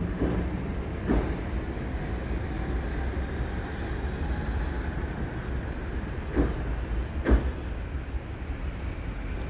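Low rumble of a passenger train's last coaches rolling away along the track, with several sharp knocks, one about a second in and two close together near the end.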